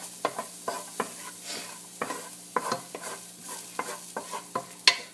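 Garlic frying in hot oil in a pan: a steady sizzle with frequent crackles and pops, and one sharper pop near the end.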